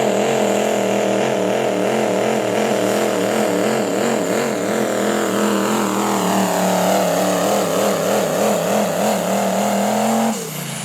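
Pulling vehicle's engine running at high revs under full load during a pull, its pitch wobbling up and down, then cutting off abruptly near the end as the throttle is let off.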